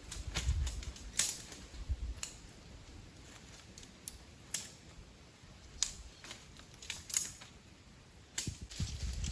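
Dry wood snapping and cracking: irregular sharp cracks, about a dozen spread unevenly, the busiest and loudest in the first two seconds along with a low rumble.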